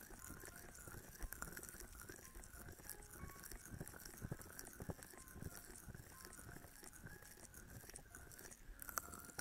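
Faint, fast, crackly scratching of a feather ear pick against an ASMR microphone, with scattered small clicks.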